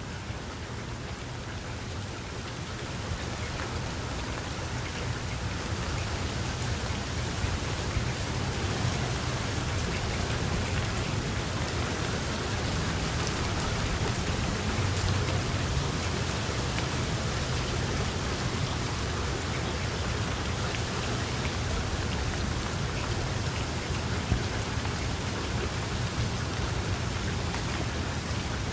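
Steady rain falling, growing heavier over the first few seconds and then holding, with a low rumble underneath that is strongest about halfway through.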